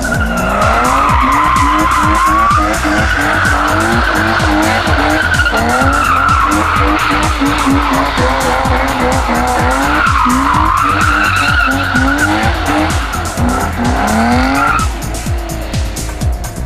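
A car's tires squealing continuously through a long skid, the pitch of the squeal wavering up and down. The squeal stops about a second before the end, under music with a steady beat.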